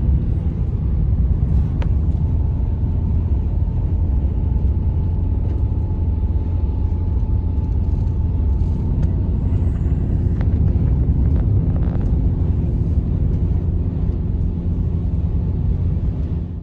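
Steady low rumble of a running vehicle on the move, with a faint high held tone through the first half and a few light ticks.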